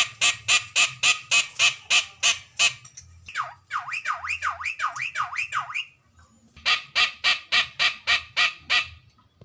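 Javan myna calling: a rapid run of harsh squawks, about four a second, then a string of whistled notes that each fall sharply in pitch, then a second run of harsh squawks.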